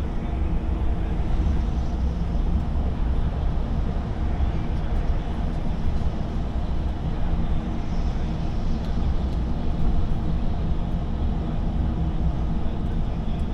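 Lorry engine drone and road noise heard from inside the cab while driving, a steady low hum with no changes in speed.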